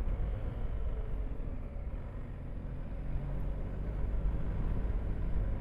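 Motorcycle engine running steadily under way, with low wind rumble on the microphone while riding.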